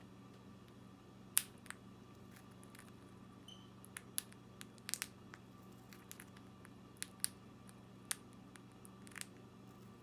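A conure cracking millet seeds in its beak: faint, irregular small clicks and crunches, a few close together about five seconds in, over a steady low hum.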